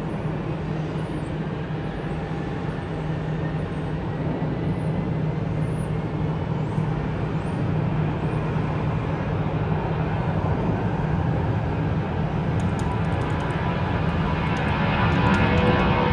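Jet airliner engines: a steady rumble with a low hum, growing louder over the last few seconds as the aircraft comes nearer.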